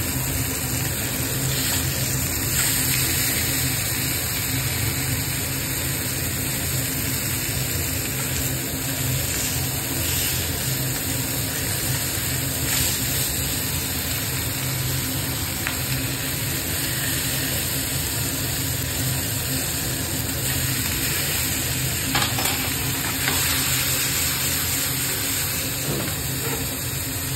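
Fish pieces frying in a pan, sizzling steadily as they crisp, with a few light clicks along the way.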